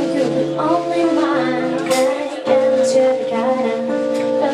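A song with a woman singing over plucked guitar accompaniment, held notes under a wavering vocal line, with a new chord struck about halfway through.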